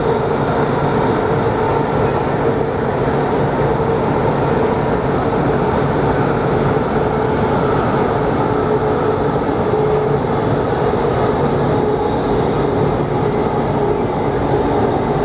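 CRH6A electric multiple unit heard from inside the coach while running: a steady rumble of wheels on rail with an even electric motor hum.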